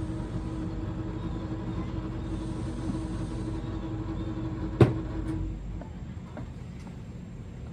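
An engine or motor running with a steady low hum and a held tone. There is one sharp click just under five seconds in, and the hum stops about half a second later.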